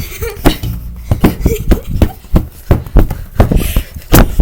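A rapid, irregular run of loud thumps and knocks, about three a second.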